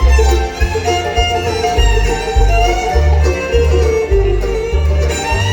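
Live bluegrass band playing an instrumental break: fiddle carrying the melody over banjo, guitar and a steady two-beat bass.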